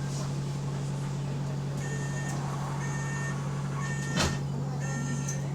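Bus engine and leaking exhaust giving a steady low drone, heard from inside the bus. From about two seconds in, a short beep repeats roughly once a second, and a single sharp knock comes about four seconds in.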